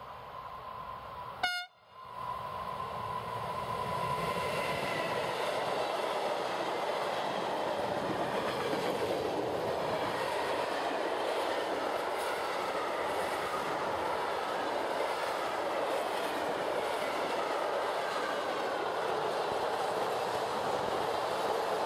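A freight train's wagons passing close by, a steady rumble and rattle of wheels on the rails with a faint high whine from the wheels. About one and a half seconds in, a sharp click and a momentary dropout break the sound.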